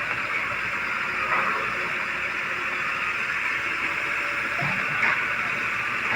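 BharatBenz tipper truck running: a steady hiss-like rush, with two brief louder sounds about a second in and about five seconds in.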